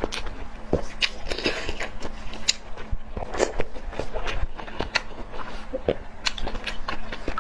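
Close-miked eating: biting and chewing spicy oden fish cakes, with many irregular wet smacks and small clicks of the mouth.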